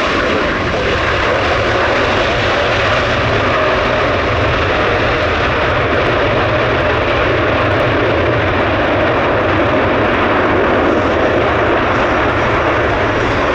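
Jet airliner's engines running, a loud, steady, even noise that holds without change.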